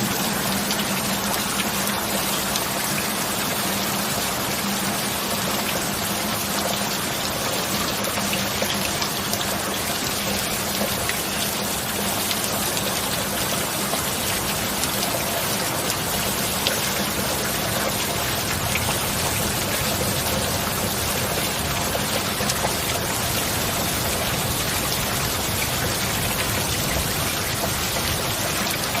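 Steady, continuous rain falling on surfaces, with no thunder, and a faint steady low hum beneath it for the first half or so.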